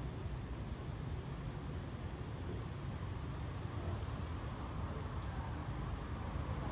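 Cricket chirping in a steady, evenly pulsed high trill that pauses briefly near the start, over a continuous low rumble.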